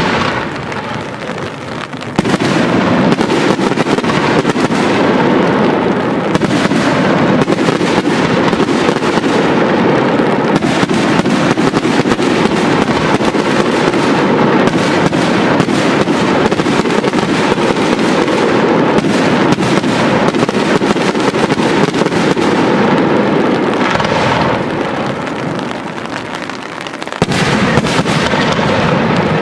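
Aerial fireworks display: a dense, continuous barrage of shell bangs and crackle that starts suddenly, eases off into a lull, then comes back suddenly loud near the end.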